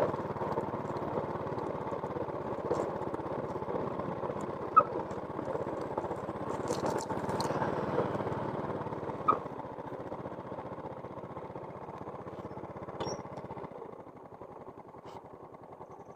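A small engine running steadily with a fast even pulse, growing quieter over the last few seconds, with a few sharp clicks over it.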